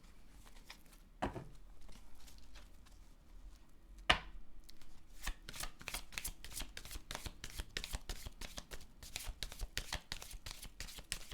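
Tarot cards being shuffled by hand: a couple of single taps, then from about halfway in a long run of quick card clicks and slaps.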